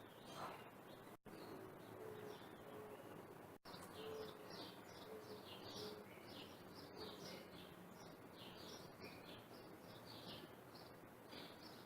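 Garden birds chirping faintly in many short, high, repeated notes, with a few short low cooing notes in the first half.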